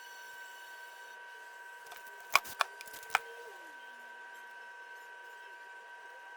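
A steady high two-tone electrical whine, with three sharp clicks in quick succession about halfway through, followed by a short falling tone.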